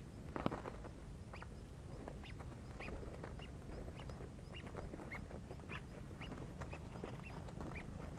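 White-breasted waterhen calling: short, repeated quacking notes, about one or two a second, over a steady low rumble, with a louder knock about half a second in.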